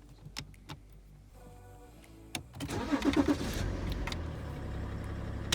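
BMW E90 engine being started: a few sharp clicks, then about two and a half seconds in the starter cranks briefly, the engine catches and settles into a steady idle.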